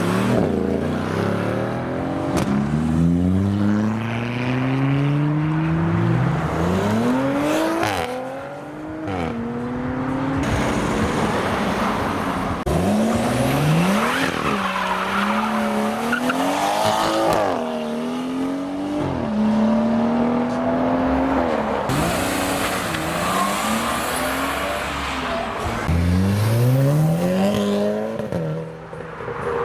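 Modified cars accelerating away one after another, their engines revving hard. The engine note climbs in pitch and drops several times over the stretch.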